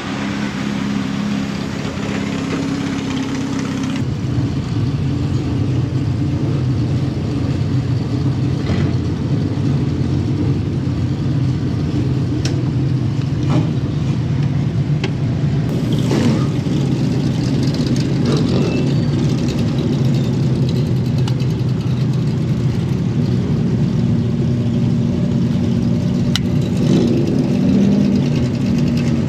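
Dirt-track race car engines running steadily, with a change in engine tone about four seconds in.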